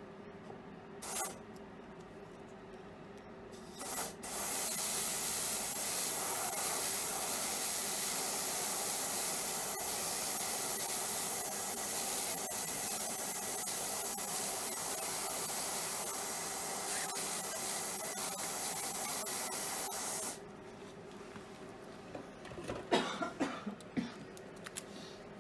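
Dental handpiece spinning a finishing disc against a composite filling: a steady high whine over a hiss, starting about four seconds in and stopping suddenly about twenty seconds in, with a few light taps near the end.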